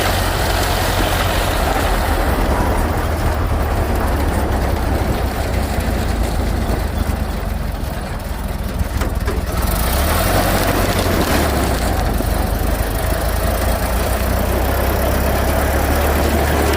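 1928 Ford Model A's four-cylinder flathead engine running steadily, with a hiss above it that thins out for several seconds midway and then comes back.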